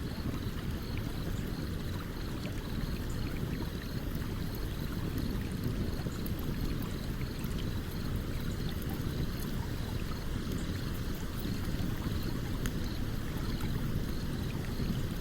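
A stream running steadily as a low, even rush of water, with scattered faint crackles and pops from a burning campfire.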